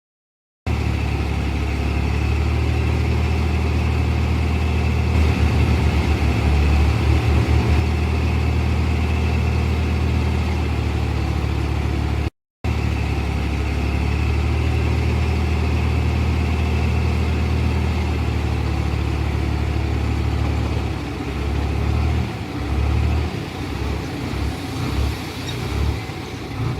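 Heavy diesel engine of earthmoving machinery running steadily under work, cutting out briefly about halfway through and rising and falling unevenly near the end.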